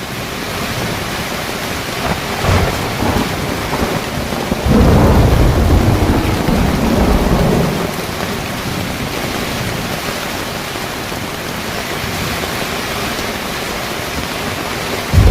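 Heavy rain falling steadily on a car rooftop tent, with thunder rumbling: a short rumble about two seconds in, then a louder, longer rumble from about five to eight seconds.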